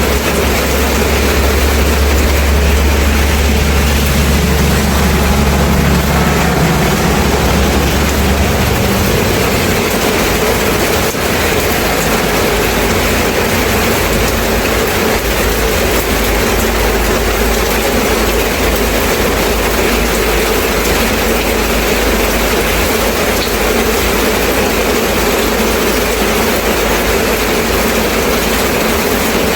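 Steady rain, a dense even hiss. Under it, a low engine-like rumble lasts for about the first nine seconds and then drops away.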